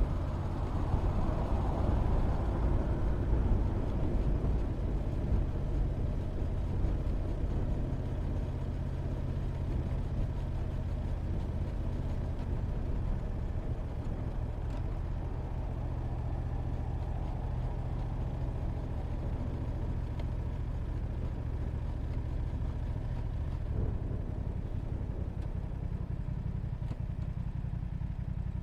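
Motorcycle engine running on the move, a steady low hum with road and wind noise that is strongest early and fades, so that by the end mostly the low engine note is left, as when slowing down.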